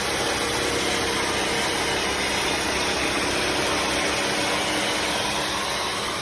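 Bissell CrossWave HydroSteam wet-dry vacuum's suction motor and brush roll running steadily with an even hum.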